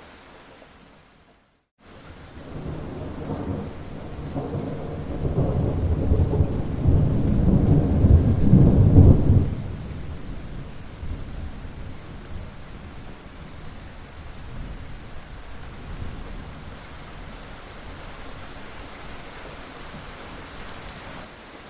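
Steady rain falling, with a long rumble of thunder that builds over several seconds and cuts off suddenly near the middle. Just before the thunder starts, the sound drops out briefly to near silence.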